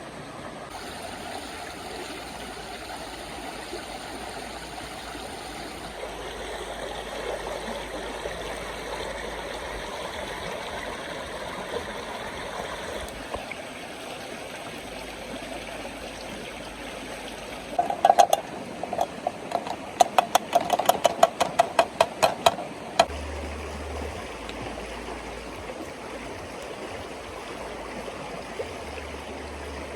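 River water flowing steadily. A quick run of sharp knocks comes a little past the middle and lasts about five seconds.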